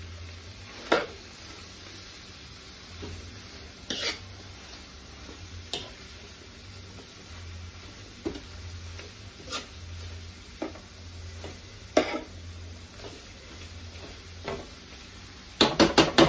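Cabbage, bacon and sausage frying with a low sizzle in a large pan while a spoon stirs it, knocking against the pan every second or two. A quick run of sharp knocks on the pan comes near the end.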